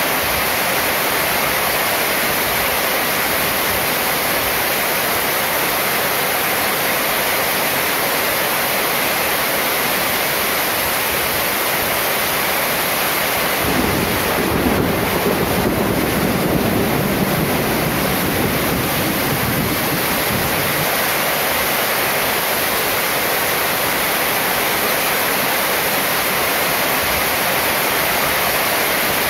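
Heavy rain drumming on a metal roof and pouring off its edge, a steady dense hiss of water. About halfway through, a low rumble of thunder swells for several seconds and fades.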